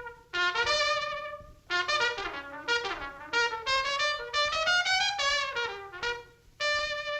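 Solo trumpet playing short jazzy phrases with gaps between them, some notes sliding up and down. It goes into a long held note near the end.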